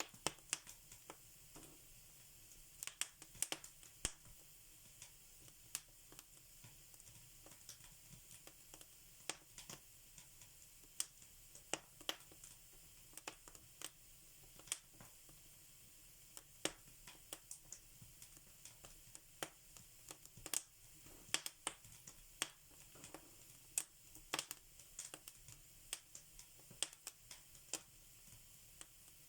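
Wood fire in a fireplace crackling, with irregular sharp pops and snaps, a few louder than the rest, over a faint steady hiss.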